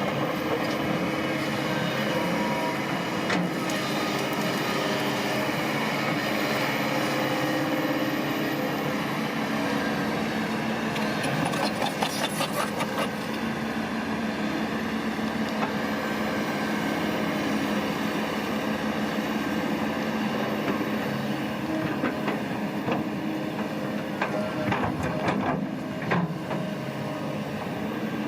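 Diesel engine of a heavy earthmoving machine running steadily, with bursts of rapid clicking about twelve seconds in and again near the end.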